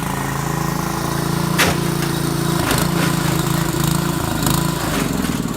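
A small engine running steadily, its pitch shifting a few times, with a couple of sharp knocks.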